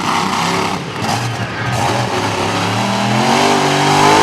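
Monster truck engine at high power, its pitch climbing steadily in the second half as it revs up.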